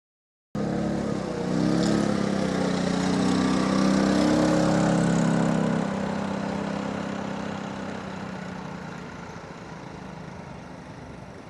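Multirotor drone's motors and propellers humming, cutting in abruptly about half a second in. The pitch wavers for the first couple of seconds, then holds steady and grows fainter over the second half.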